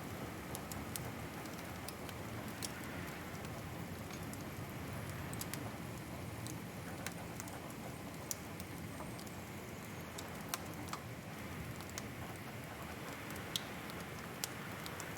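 Wood fire crackling in a fireplace: a steady low rush of burning with scattered sharp pops and snaps at irregular intervals.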